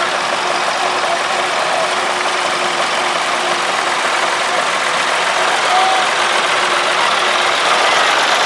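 Vintage tractor engines running steadily, a continuous mechanical engine noise.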